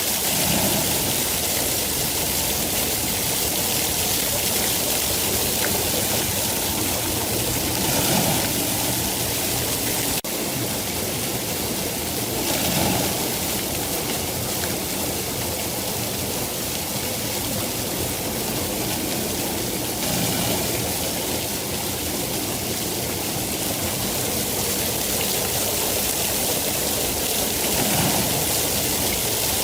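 Steady heavy rain: a dense, even hiss with gentle swells every several seconds.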